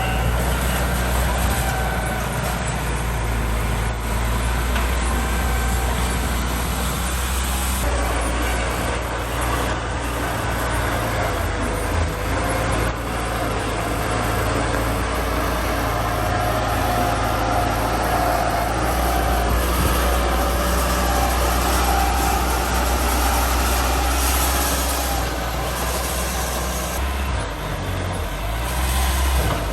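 Heavy diesel engine of earthmoving machinery running steadily under load, a constant low engine drone with some shifting mid-pitched whine.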